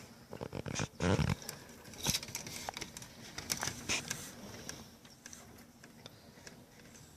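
A large flock of birds feeding in a berry tree, giving many short, irregular chirps and clicks, busier in the first half and thinning out later. A brief muffled thump about a second in is the loudest sound.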